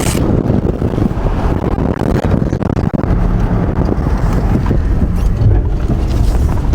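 Van being driven, its engine running with a steady low rumble, with wind buffeting the microphone.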